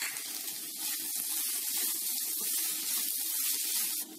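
Chicken keema sizzling in a hot non-stick kadai as it is stirred with a wooden spatula: a steady hiss with faint light scraping taps. Its liquid has cooked off and the mince is dry-frying. The hiss cuts off suddenly near the end.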